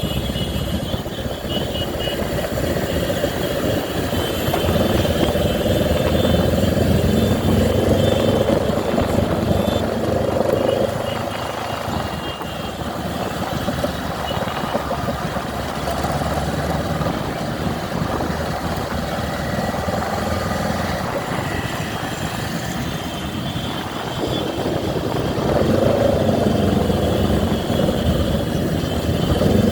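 Motorcycle engines running steadily on the move, their pitch rising and falling slightly.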